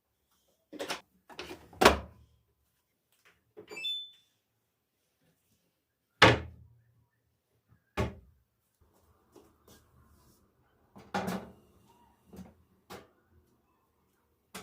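A series of separate knocks and thumps from household things being handled, about eight in all, loudest about two and six seconds in, with a brief ringing clink near four seconds.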